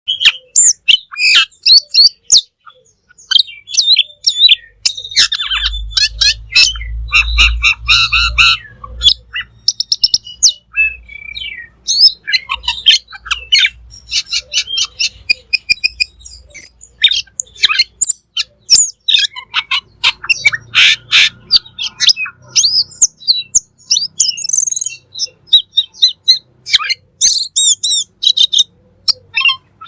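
Cucak keling singing a long, varied song of rapid chirps, trills, whistled glides and harsher notes, almost without pause. A low rumble sits under the song about five to ten seconds in and again around twenty seconds in.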